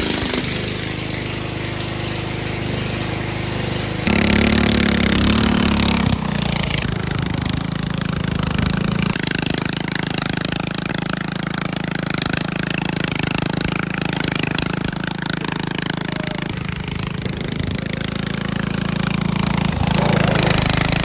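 Garden tractor engine running steadily, revving up louder about four seconds in, shifting pitch again near six seconds and then holding a steady note.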